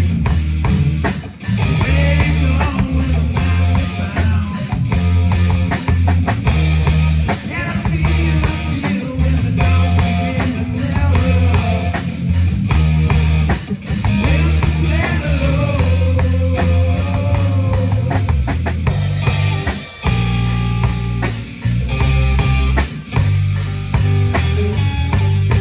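Rock band playing live, with electric guitar, bass and drum kit and a steady beat.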